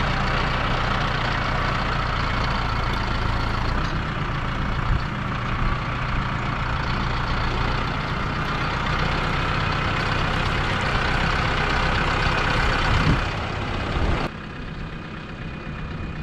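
Diesel engine of heavy farm equipment running steadily; about 14 seconds in, an abrupt cut drops it to a quieter engine sound.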